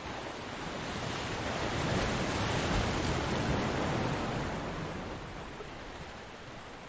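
Ocean surf: a wave builds to a rushing break about two seconds in and then slowly washes out and fades.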